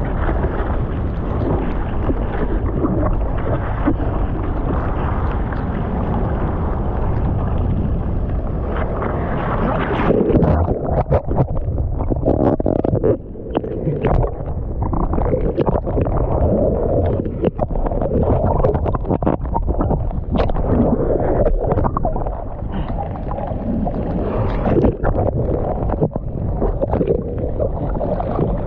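Seawater sloshing and splashing close to the microphone while surfing, with rumbling wind noise on the mic; from about ten seconds in, the water turns choppier with many sharp splashes.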